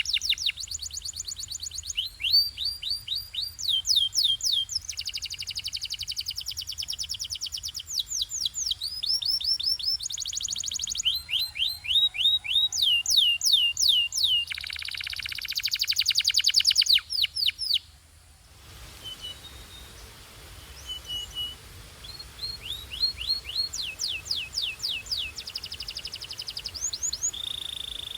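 Belgian canary singing a long song of fast trills: runs of rapidly repeated high sweeping notes that switch to a new roll every second or two. About 18 seconds in, the song breaks off briefly, then resumes more softly.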